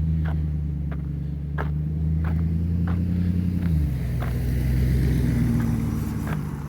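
Car engine running with a steady low hum; its pitch drops about four seconds in, with faint ticks and knocks over it.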